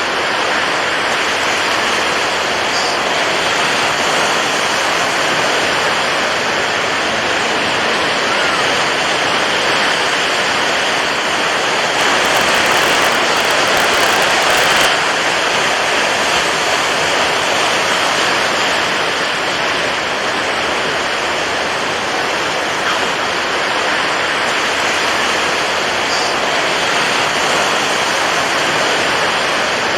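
Steady rushing water, a continuous even wash of noise that swells slightly louder and brighter for about three seconds near the middle.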